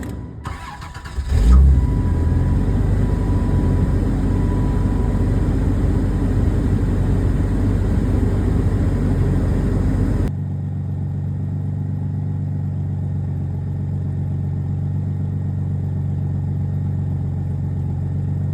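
A 1997 Dodge Intrepid's 3.3-litre V6 is cold-started in freezing weather. The starter cranks briefly, and the engine catches about a second and a half in with a flare. It runs fast and rough, then about ten seconds in drops suddenly to a quieter, steady idle.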